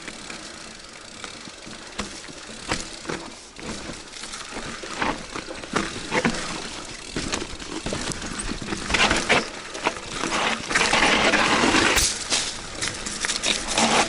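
Loose stones crunching and clattering on a rocky trail, with many sharp clicks that grow louder, and a dense burst of gravel noise about eleven seconds in.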